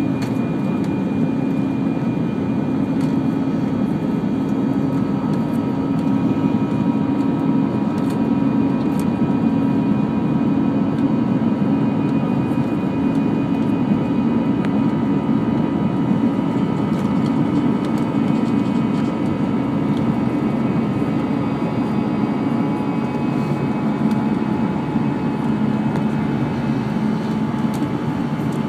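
Steady cabin noise inside an Airbus A319 airliner in flight: a constant rush of airflow and engine drone, with a few faint steady whining tones over it.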